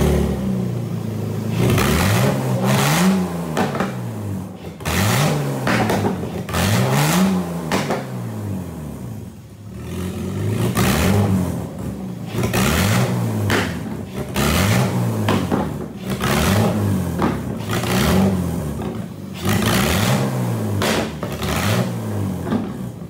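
BMW M52TU inline-six engine, fitted with an M50 intake manifold and already warmed up, revved again and again in short blips, roughly one every one to two seconds, falling back toward idle between each.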